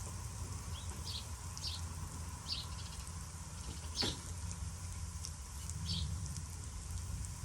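Breaded chicken thighs shallow-frying in canola oil on a hot flat-top griddle: a steady, fairly quiet sizzle over a low hum. Short high chirps come through about once a second.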